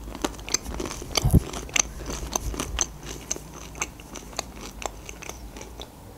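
Crunchy chewing of a mouthful of crisp-breaded chicken strip, a quick run of crackling crunches that thins out and softens toward the end.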